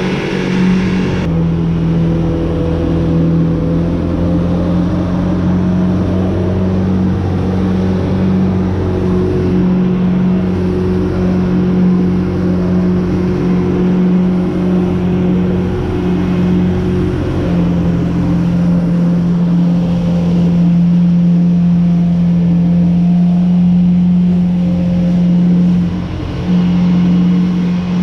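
Jet ski engine running steadily under load, as when driving a flyboard, with its pitch shifting a little a few times.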